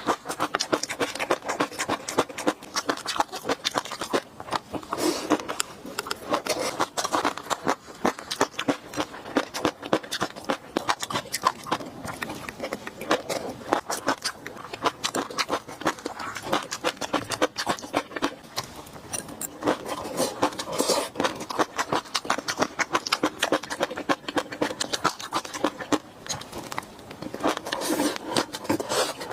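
Close-miked mouth sounds of a person eating fish roe sauce: a dense, continuous run of wet clicks and smacks from chewing.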